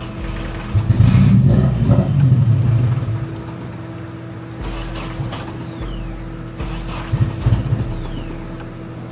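Nissan 240SX S14 being cranked. About a second in there is a loud, rough burst of about two seconds, followed by shorter, weaker bursts later. The car will not start.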